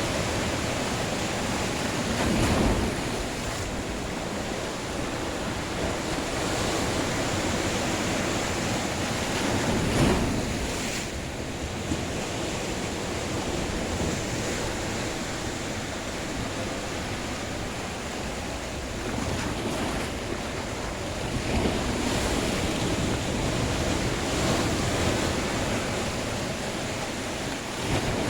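Sea waves washing onto the shore in a steady rush, swelling louder every few seconds as a wave breaks.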